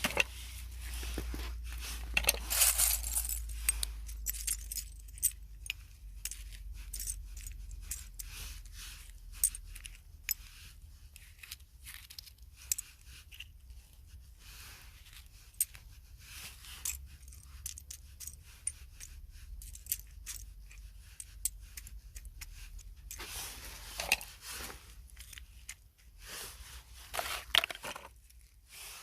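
Close-up handling sounds for ASMR: many small sharp clicks and short scrapes of objects being handled, busiest about two seconds in and again near the end.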